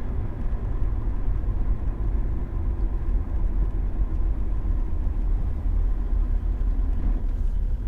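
Toyota LandCruiser Troopcarrier driving: a steady low rumble of engine and road noise.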